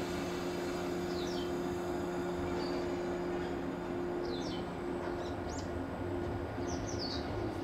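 Steady electric hum of a stationary electric multiple-unit train, with a few short, high, falling bird chirps over it.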